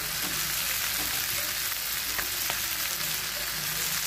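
Banana-flower and onion masala sizzling steadily in a kadai as fried fish pieces are laid in, with a couple of light knocks about two seconds in.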